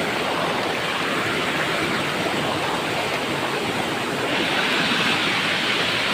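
Waterfall rushing: a steady, even roar of falling water that turns a little brighter and louder about four seconds in.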